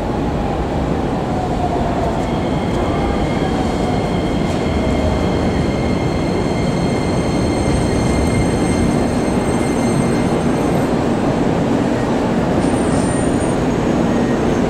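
Electric train running into a station and slowing, with loud wheel and running noise. Over the first few seconds a motor tone falls in pitch, then several high steady whistling tones sound from about two seconds in until near the end.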